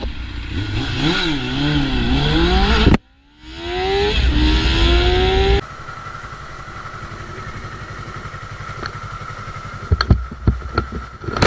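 Motorcycle engine revving, its pitch rising and falling, then after an abrupt cut accelerating with a smoothly rising pitch. It then gives way suddenly to a quieter steady running sound, with a few sharp clicks near the end.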